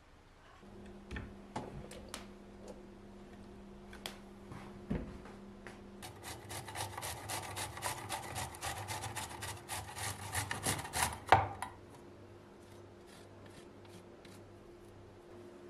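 Scattered knocks, then about five seconds of rapid, dense scraping and rubbing that ends with a sharper knock, over a faint steady hum.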